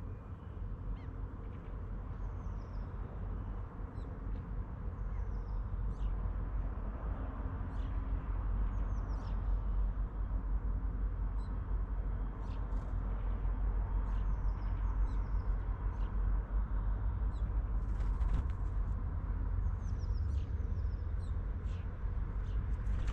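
Small birds calling with short, high chirps, scattered irregularly throughout, over a steady low rumble.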